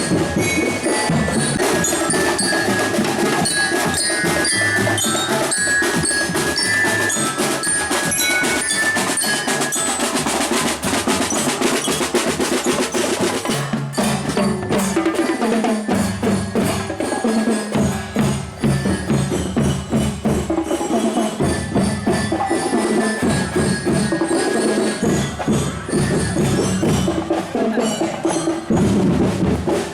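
Drum band playing: quick, high, bell-like mallet notes ring over drums and other percussion, and lower drum patterns come forward from about halfway through.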